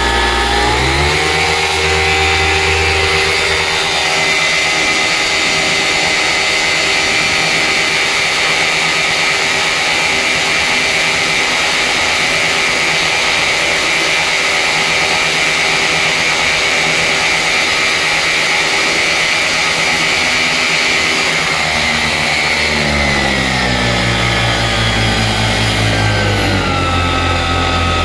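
Vittorazi Atom 80 78cc two-stroke paramotor engine, fitted with a tuned expansion chamber exhaust, driving a 130 cm propeller in a full-throttle thrust test. It revs up about a second in, holds steady at full throttle for about twenty seconds, running smoothly, then throttles back in steps near the end.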